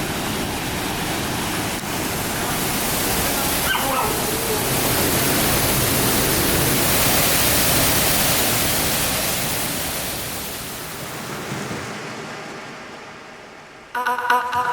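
Waterfall rushing, a steady roar of falling water that swells and then fades away near the end. Music cuts in at the very end.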